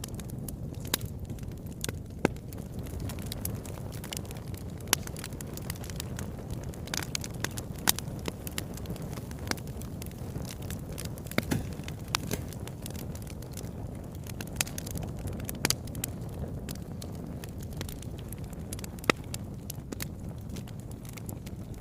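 Wood fire burning in a fireplace: a steady low rumble of flames with irregular crackles and pops, and a few louder sharp snaps.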